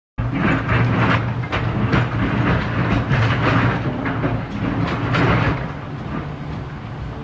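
Heavy diesel excavator working under load, engine hum overlaid with irregular clattering and crashing of rock on steel as rocks are loaded. The clatter is loudest over the first five seconds, then eases.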